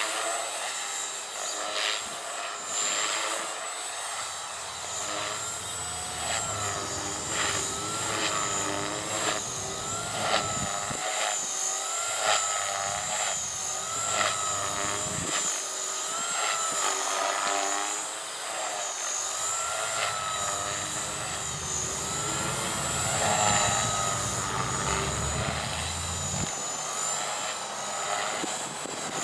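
Oxy3 Tareq Edition electric RC helicopter flying 3D manoeuvres: its motor and rotor whine wavers up and down in pitch throughout. Strong wind rumbles on the microphone in long stretches.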